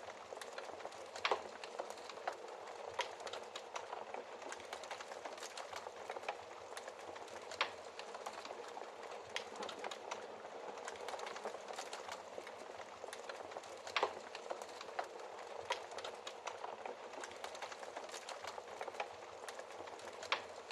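Fire burning in a fireplace: a steady hiss with constant irregular crackling and a few louder pops.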